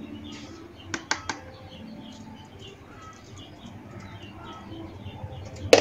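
Faint bird chirps repeating in the background, with a few light clicks about a second in and a sharp click near the end.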